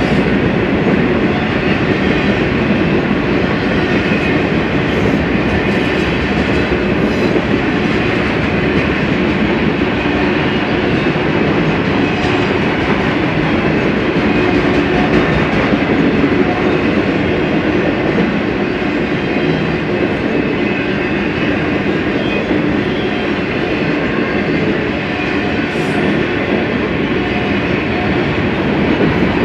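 A BNSF freight train's cars rolling past at speed: a loud, steady rumble of steel wheels on rail.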